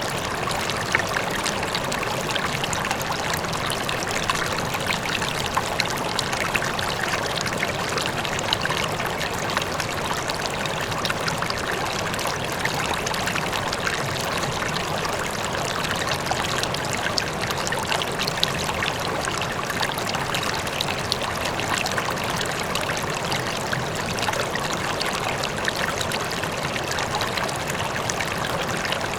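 A river flowing steadily, with a constant rush of water full of small splashes and trickles and a faint waterfall in the distance.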